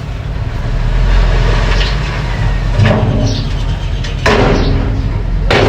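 Mini bulldozer's engine running steadily, with a few sharp metal clanks, the loudest two near the end.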